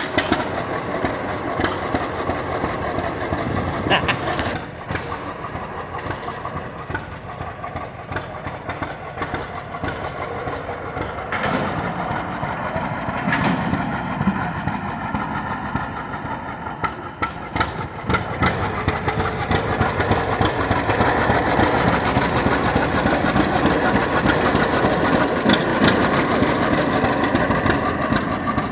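An engine running steadily, getting louder about eighteen seconds in.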